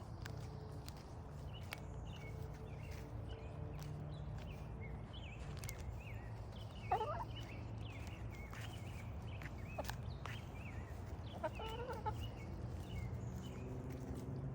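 Chickens clucking and chirping, with two louder calls about seven and twelve seconds in, over a steady low hum.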